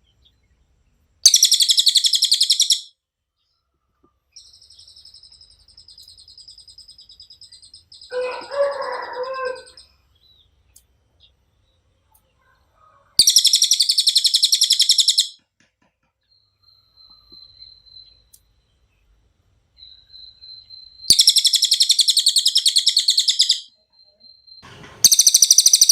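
Cililin, the yellow-throated hanging parrot, singing four loud, high, buzzy trills of about two seconds each. Between them come fainter thin high calls, and one lower call around the ninth second.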